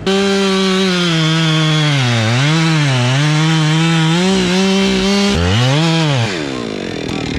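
Small two-stroke chainsaw at full throttle making the back cut through a fir trunk. Its high engine note sags twice as the chain loads in the wood and recovers. About five seconds in the throttle is let off, the engine gives one short rev, then drops back toward idle.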